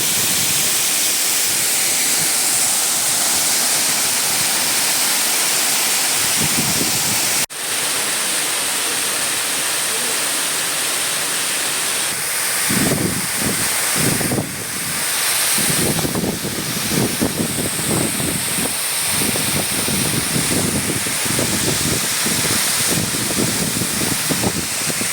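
Waterfall's steady loud rush of falling water. From about halfway through, irregular low rumbling pulses sound under it.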